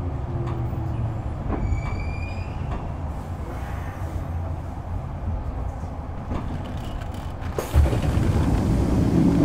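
Running sound of a Kintetsu 6020 series electric train heard on board: a steady low rumble of wheels on rail and running gear. A faint high squeal comes about two seconds in, and the rumble turns suddenly louder with a knock near the end.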